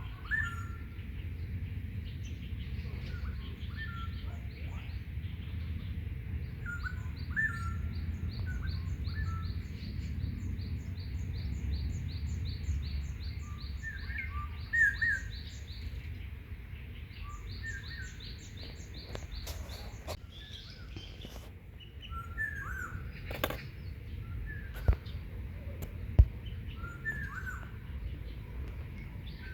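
Several small birds calling outdoors: scattered short chirps throughout, and one bird repeating a long run of high, evenly spaced notes, over a steady low rumble. A few sharp clicks or knocks come near the end and are the loudest sounds.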